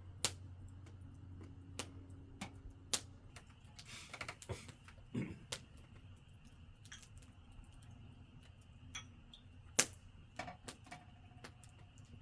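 Irregular sharp clicks and light knocks, about a dozen, with a busier cluster about four seconds in and a loud single click near the end, over a steady low hum.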